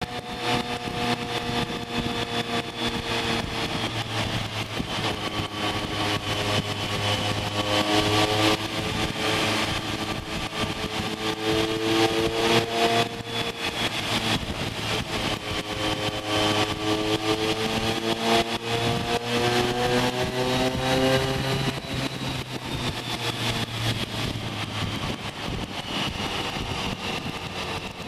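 BMW K1200GT sport touring motorcycle's inline-four engine running through a deep-toned Remus aftermarket muffler while riding, its pitch falling and rising several times as the rider eases off and accelerates.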